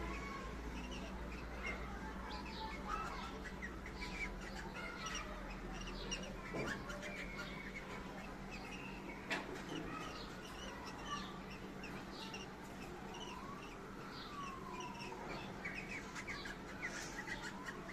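Cockatiels chirping and calling, with many short chirps throughout and a few whistles that rise and fall in pitch in the second half. A single sharp click comes about nine seconds in.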